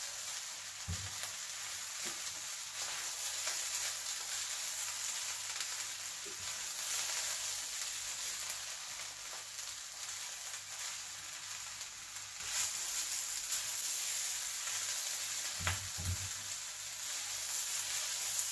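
King prawn fried rice sizzling in a stainless steel pan while being stirred and turned with a spatula: a steady hiss, with a dull knock of the spatula against the pan about a second in and a couple more near the end.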